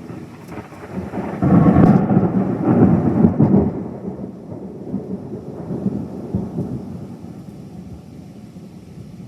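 Thunder rumbling: it builds quickly, peaks about a second and a half in for a couple of seconds, then rolls on and slowly dies away.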